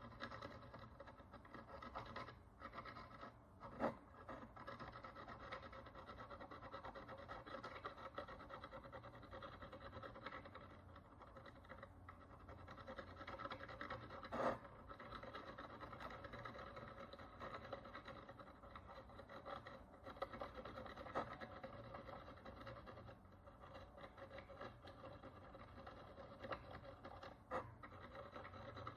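Faint, steady scratching of a small hand tool working the dirt and oxidation crust off a Roman bronze coin, with a few sharp clicks.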